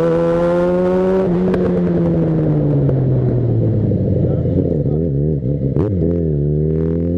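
Yamaha XJ6 inline-four motorcycle engine under way: the engine note climbs, drops about a second in, falls away as it slows, gives a few quick blips of the throttle around five to six seconds in, then climbs again near the end.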